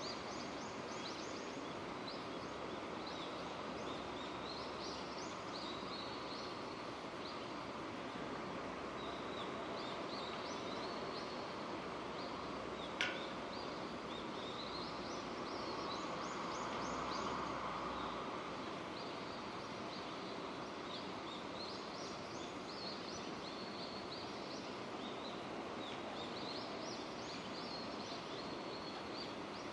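Steady rain falling, an even hiss, with a repeated high chirping call over it every few seconds. A single sharp click about 13 seconds in, and a brief swell of louder noise a few seconds later.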